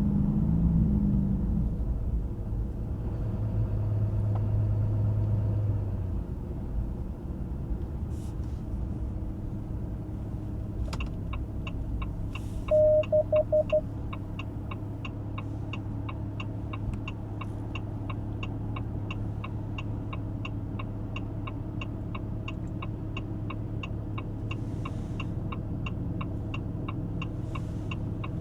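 Ram 2500's high-output Cummins turbo-diesel inline-six running, its rumble easing in the first several seconds and then settling to a steady, quieter hum. About eleven seconds in, an even ticking like a turn-signal flasher starts and keeps going, and shortly after a quick run of five beeps sounds once.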